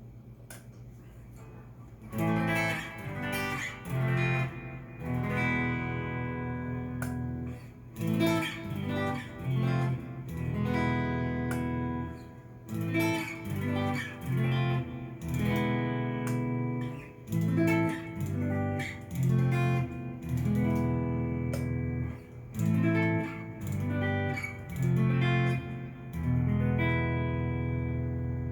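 Korean-made Cort S series electric guitar played through a Fender amp, with no effects pedals. Chords come in about two seconds in and are struck and let ring in a repeating rhythmic pattern, with short breaks between phrases.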